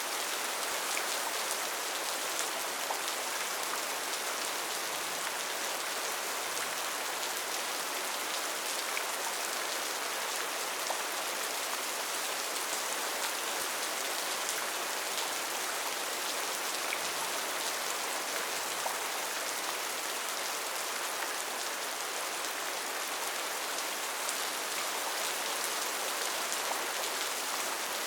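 Steady rainfall in a rainforest: an even hiss of rain with many individual drops pattering on leaves and surfaces.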